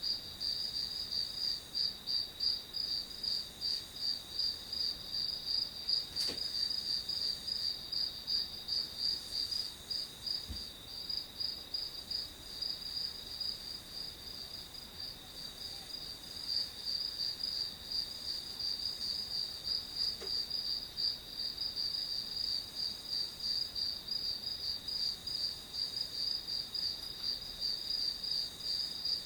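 Crickets chirping steadily in a high-pitched, rapidly pulsing chorus, with a faint tap or two underneath.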